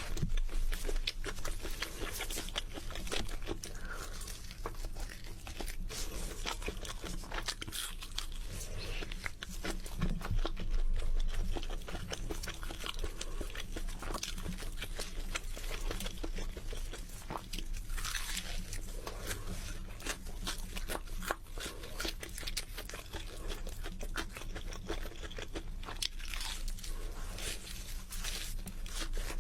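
Close-miked eating: a person biting and chewing crunchy food, with irregular crunches and a little crinkling.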